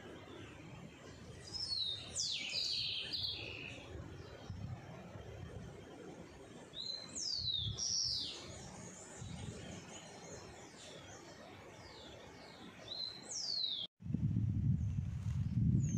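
Wild birds calling outdoors: several short, high whistled calls that sweep downward in pitch, over faint background ambience. Near the end, after a brief drop-out, a louder low rumbling noise sets in.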